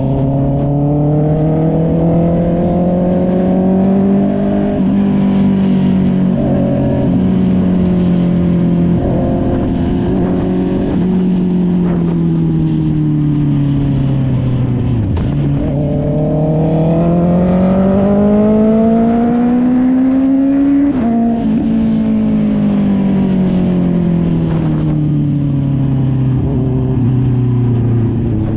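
Honda CB650R inline-four motorcycle engine through an SC Project aftermarket exhaust, ridden under changing throttle. The engine note climbs over the first few seconds, holds, sinks to a low point about halfway, climbs again to its highest pitch about three quarters through, drops suddenly, then winds down steadily.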